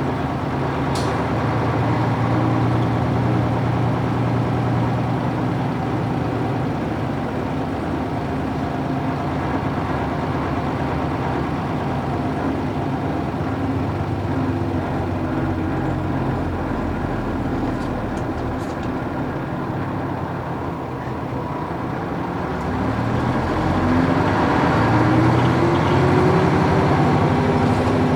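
Nissan Diesel UA440 city bus running on its PF6 diesel engine. The engine note holds steady, sags around two-thirds of the way through, then rises in pitch as the bus pulls away and accelerates near the end.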